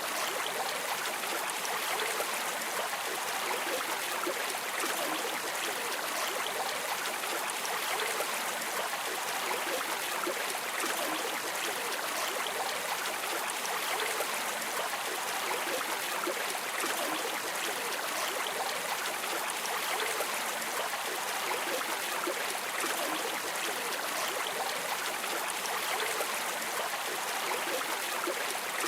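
Water of a river or stream flowing and splashing steadily over rocks, a continuous even rush.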